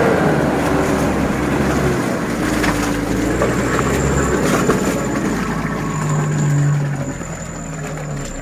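Pickup truck engine revving under load, its pitch rising and falling as the driver works the throttle.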